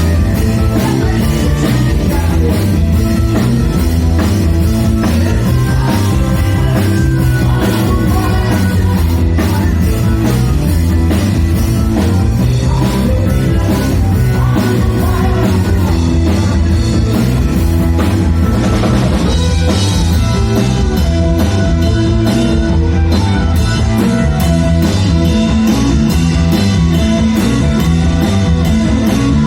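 Rock band playing loudly: a drum kit keeps a steady beat under guitars and singing, with a brief rising sweep about two-thirds of the way through.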